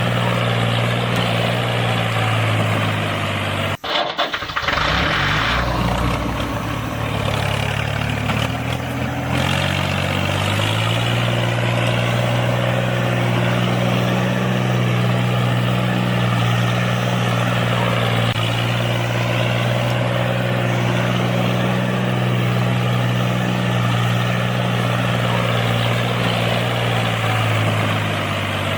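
An engine running at a steady idle. About four seconds in, the sound drops out for a moment. A lower engine sound then rises over several seconds and settles back into the same steady idle.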